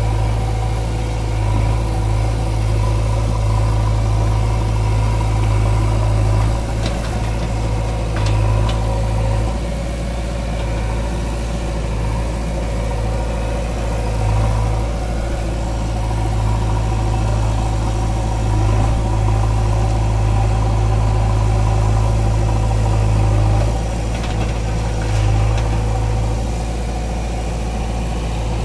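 Heavy diesel engine running steadily near idle, with small rises and dips in loudness.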